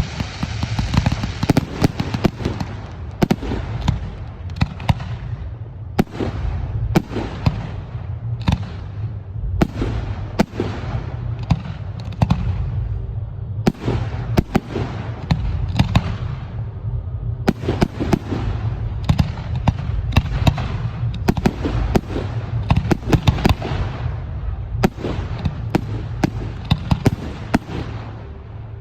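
Professional fireworks display: a dense, continuous barrage of shell bursts and sharp bangs, several a second, over a steady low rumble.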